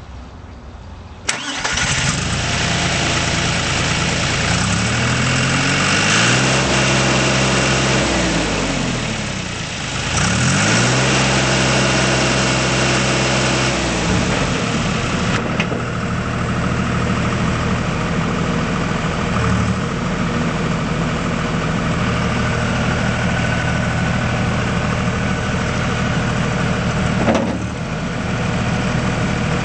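2005 John Deere 240 skid steer's diesel engine starting about a second in, then revved up and back down twice before settling into a steady idle.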